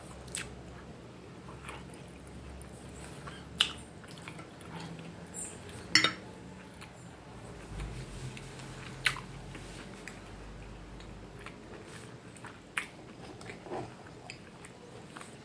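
A person chewing a bite of fried meatball in tomato sauce, close to the microphone, with soft mouth sounds and a few sharp clicks scattered through, the loudest about six seconds in.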